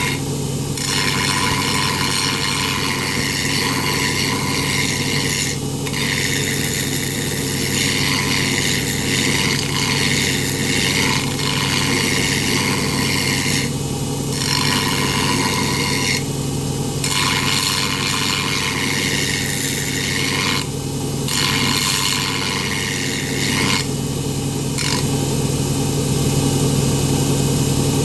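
Power grinder doing the first rough grind on an aluminum boat propeller blade: a steady motor hum under a harsh grinding hiss that drops away briefly several times.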